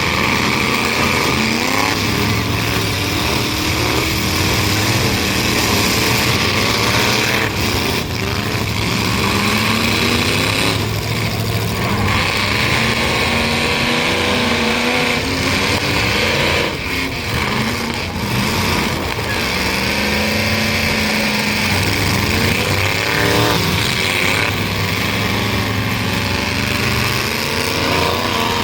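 Several demolition-derby truck engines running hard at once, revving up and down in overlapping pitches, with a few brief bangs.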